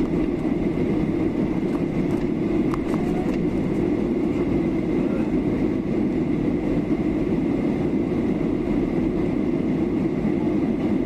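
Steady cabin noise of a Boeing 737-800 airliner in descent: the even rumble of its engines and the airflow over the fuselage, with a faint steady whine. A few light clicks come about two to three seconds in.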